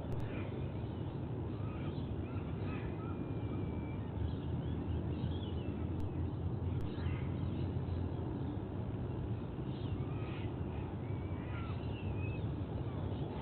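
Scattered short bird chirps and whistled calls, several of them, over a steady low rumble picked up by an outdoor nest-camera microphone.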